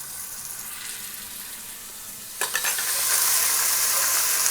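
Hot oil sizzling in a pan of browned onions and whole spices as ginger-garlic paste goes in; a little past halfway the sizzle jumps suddenly louder and stays loud.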